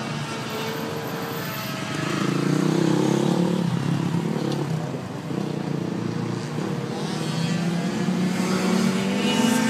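Racing motorcycle engines on a circuit, their pitch rising and falling as the bikes accelerate and shift gear. They grow louder about two seconds in and again near the end as bikes pass.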